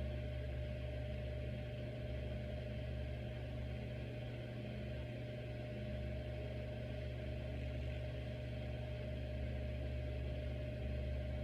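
42-inch Hampton Bay Grayton II ceiling fan running: a steady motor hum with a thin, even whine over it.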